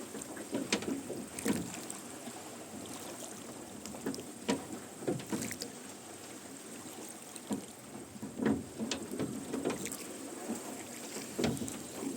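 Rowboat being rowed: oars dipping and splashing with creaking oarlocks, in strokes about every three seconds, four times.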